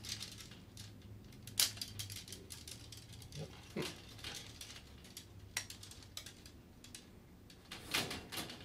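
Faint, scattered clicks and rustles as hands handle a fluorescent fixture's metal lamp-holder bracket, with its plastic tombstone sockets and loose wires. Four stronger clicks stand out, about two seconds apart.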